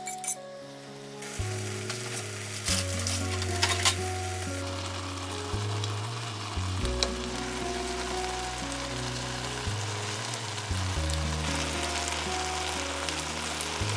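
Food sizzling and frying in a hot pan, a steady hiss that starts about a second in.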